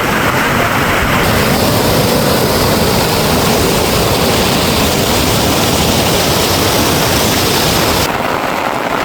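Steady, loud rushing of water, typical of monsoon rain or a swollen torrent, with the tone shifting abruptly about a second and a half in and again near the end.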